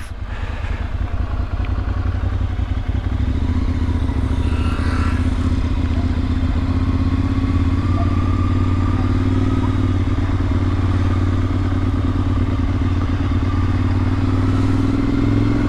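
Ducati Monster 696 L-twin running through Akrapovic slip-on exhausts, riding along steadily at low revs. The engine note rises gently in the second half.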